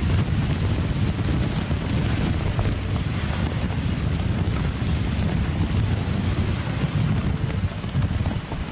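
Hurricane wind gusting hard and buffeting the microphone, a steady rushing noise over a heavy, uneven low rumble.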